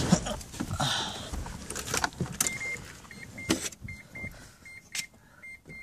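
Clicks and knocks of handling inside a 1988 Mazda RX-7, then about two and a half seconds in the car's dashboard warning chime starts beeping, a quick repeating run of short high pips; the engine is not running.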